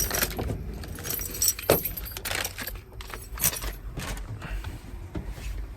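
Keys jingling with irregular clatter and several knocks, the loudest knock about two seconds in.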